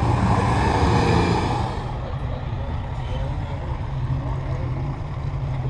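A Porsche 911 convertible drives past with its engine running. About two seconds in, this cuts sharply to the steady low drone of a semi-truck's diesel engine pulling a large enclosed car-transporter trailer past.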